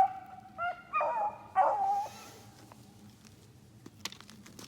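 A pack of rabbit hounds baying as they run a rabbit: several drawn-out, overlapping bays in the first two seconds, then the voices drop away.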